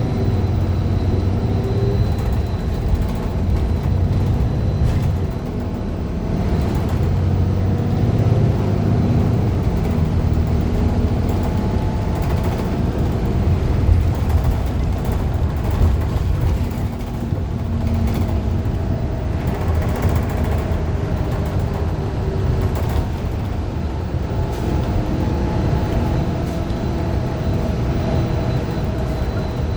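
Interior ride sound of a 2015 Gillig Low Floor 40-foot CNG transit bus under way: its Cummins Westport ISL G natural-gas engine runs over a low road rumble, the engine note rising and falling several times, with scattered rattles. The bus's Allison B400R automatic transmission is one the uploader calls messed up.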